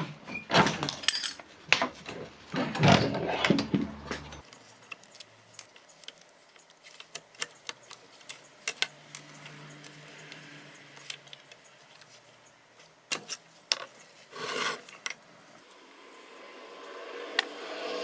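Metal hand tools and scooter engine parts clinking and clattering as the engine is unbolted and taken apart. A busy clatter in the first few seconds, then scattered clicks and knocks.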